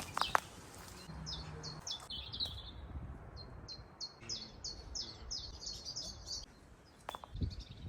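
A small bird chirping: a run of short, high notes, about three a second, starting about a second in and stopping about six and a half seconds in.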